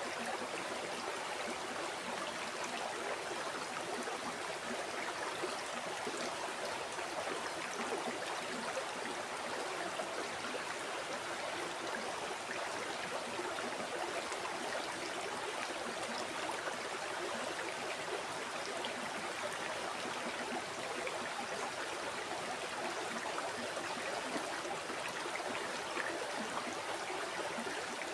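River water flowing steadily over rocks, an even rushing with a fine splashing and bubbling texture.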